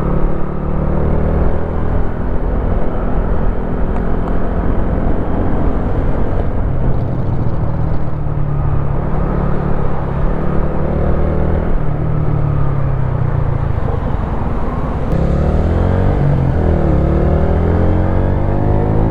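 Wolf Classic 125cc motorcycle engine running steadily under way. About 15 seconds in, the engine note climbs and dips several times as the revs change.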